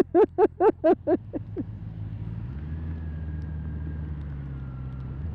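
A person laughing in short, evenly spaced bursts for about a second and a half, then a motorcycle engine running steadily.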